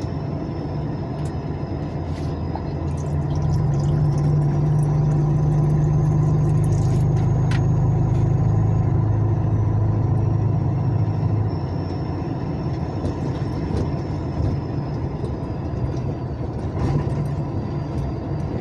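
Truck engine running in slow traffic, heard from inside the cab: a steady low hum that grows louder about three and a half seconds in and drops back about twelve seconds in, with a faint high whistle drifting up and down over it.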